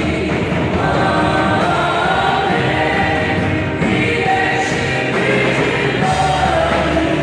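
A worship choir singing gospel music in sustained, held lines over a steady instrumental backing.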